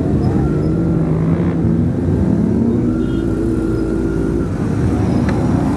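Motorcycle engines running on the road, with a dense low rush of wind and road noise. An engine note climbs about two seconds in and then holds steady.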